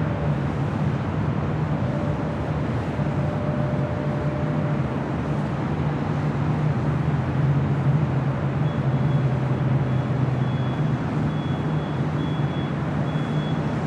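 Rolls-Royce Trent 900 jet engines of a departing Lufthansa Airbus A380 at takeoff power, a steady rumble with a low hum. A faint high, intermittent beeping joins about nine seconds in.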